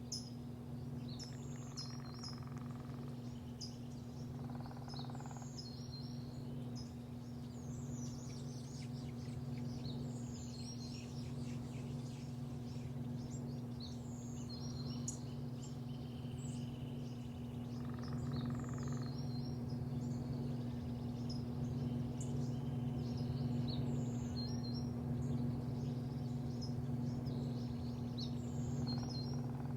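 Small birds chirping repeatedly in short high calls, over a steady low machine hum.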